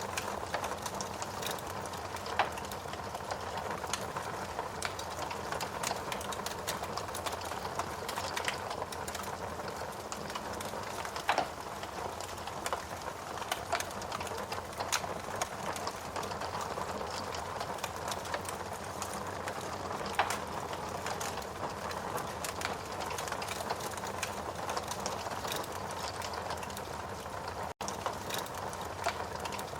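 Wood fire burning in a fireplace: a steady hiss with frequent irregular sharp crackles and pops from the burning wood. The sound cuts out for an instant near the end.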